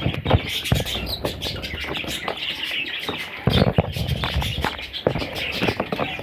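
Budgerigars chirping and chattering continuously, many short overlapping calls, mixed with frequent short clicks and taps.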